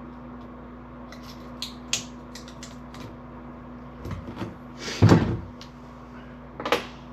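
Small clicks and knocks of hands handling parts, with a louder thump about five seconds in and another just before the end, over a steady low hum.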